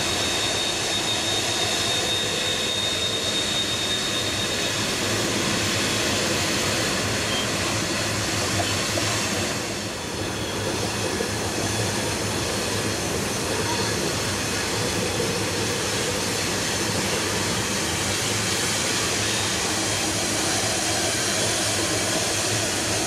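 Heavy BNSF grain train, nine diesel locomotives and a long string of loaded cars, running steadily as it works down a steep 2.2% grade. A faint high steady tone rides over it in the first few seconds, and the sound dips briefly about ten seconds in.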